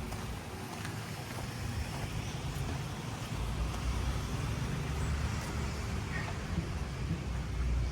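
Low rumble of road traffic, a vehicle passing, growing stronger from a little before halfway, over an even background hiss.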